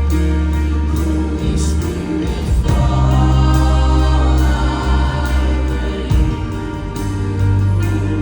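Contemporary worship music: a band holds sustained low bass and keyboard chords under repeated drum and cymbal strokes, with a choir of voices singing along.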